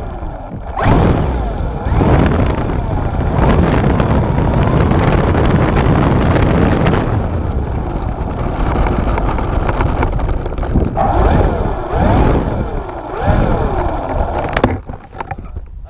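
RC airplane motor and propeller, heard from a camera mounted on the plane, running loud with a dense rushing noise as the plane taxis on the ground. The motor is throttled up and down in several quick rising and falling sweeps near the start and again later, then cuts back sharply near the end.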